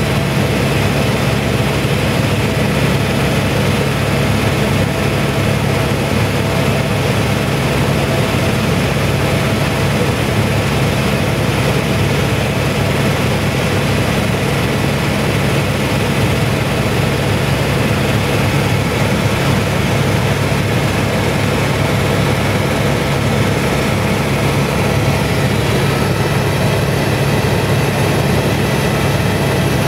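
Helicopter in steady flight: an even, unbroken drone of engine and rotor noise with a strong low hum, neither rising nor falling.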